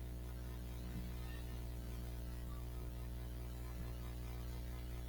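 Steady electrical mains hum with a buzzy edge and a light hiss underneath, unchanging throughout.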